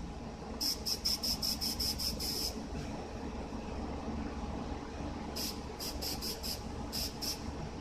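Aerosol can of black spray paint hissing in short, quick bursts, about four a second, then a few more bursts later, over a steady low hum.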